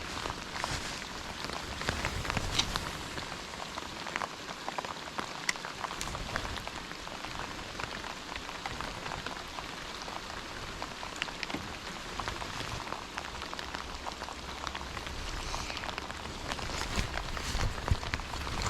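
Rain falling steadily, with many sharp taps of single drops landing close by.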